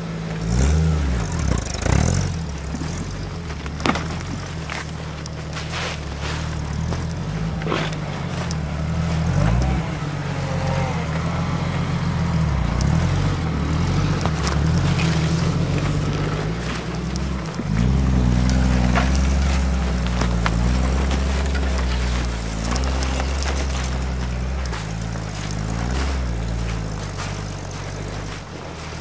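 Off-road Jeep's engine revving hard under load as it pushes through deep snow, the revs rising and falling, then climbing and holding high about two-thirds of the way through. A few sharp knocks sound in the first half.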